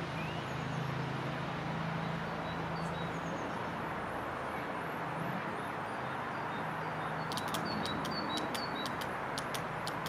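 Birds chirping over a steady background rush. A low engine hum fades out in the first few seconds, and a run of quick, high chips comes near the end.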